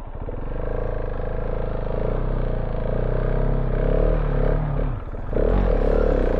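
KTM 690 Enduro R single-cylinder engine pulling hard off-road as the rear tyre struggles for grip. The engine note sags and dips about five seconds in, then picks up again louder.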